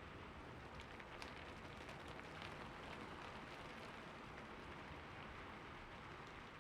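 Soft, steady rain falling in a city, with many faint drop ticks over an even hiss.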